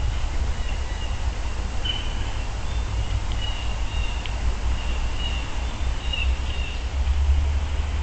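A steady low rumble, with faint high bird chirps and short warbled phrases coming and going over it.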